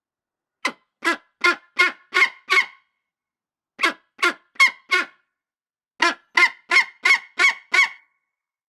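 A bird calling in three bouts of short, harsh notes, about three notes a second: six notes, then four, then seven or eight, the last bout the longest.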